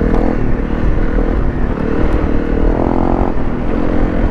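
Honda CRF250 Rally's single-cylinder engine running while riding off-road, its note rising briefly about three seconds in as the throttle opens.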